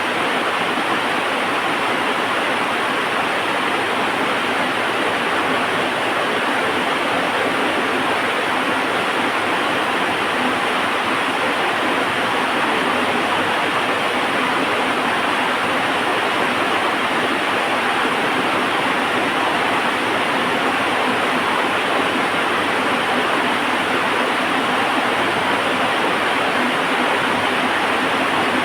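Heavy rain falling steadily, an even unbroken hiss with no thunder or distinct drops standing out.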